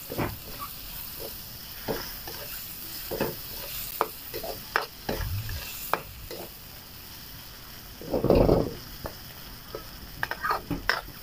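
Button mushrooms with garlic and red onion sizzling in oil in a wok, stirred with a spatula that scrapes and taps against the pan. A steady hiss with scattered clicks and one louder burst about eight seconds in.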